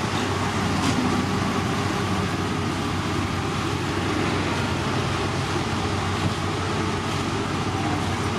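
Heavy road-construction machinery running steadily: a continuous engine drone with a constant low hum and no clear changes.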